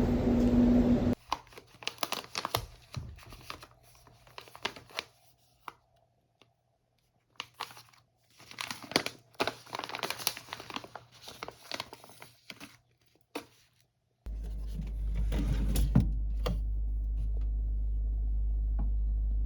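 Music stops about a second in, followed by scattered crinkling, tapping and rustling of small objects being handled. About two-thirds of the way through, a steady low hum starts under more clicks.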